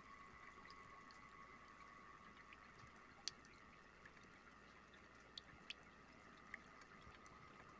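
Near silence: a faint steady high hum with a few faint ticks.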